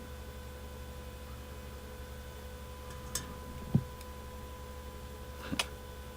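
Steady background hum with three short clicks or knocks, the loudest a low knock near the middle.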